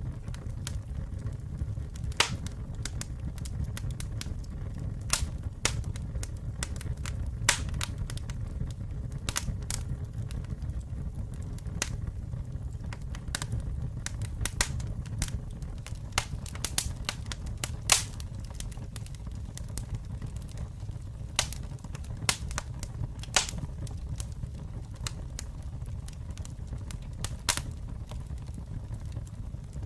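Campfire burning: a steady low rumble of flame with irregular sharp crackles and pops from the burning wood, a few of them louder snaps scattered through.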